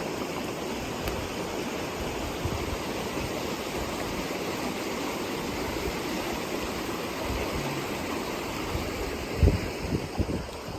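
Steady rushing of heavy rain and fast-running storm runoff, with a few short low thumps near the end.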